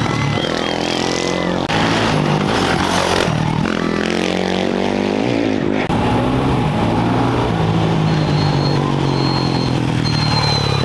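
Off-road racing motorcycle engines revving hard, their pitch rising and falling as the bikes accelerate away from the start, with a brief dip about six seconds in.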